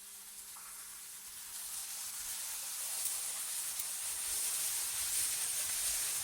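Synthetic wind ambience: a high, airy hiss that swells steadily from about a second and a half in to its loudest near the end, over a faint steady low hum.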